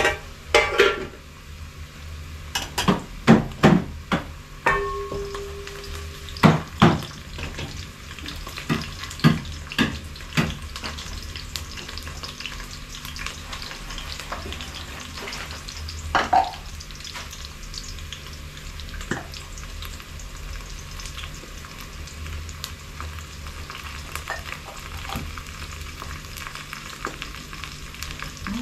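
Metal pots, lids and utensils clattering and knocking a dozen times in the first ten seconds and twice more later, over a steady sizzling hiss of food frying in a pot on the stove.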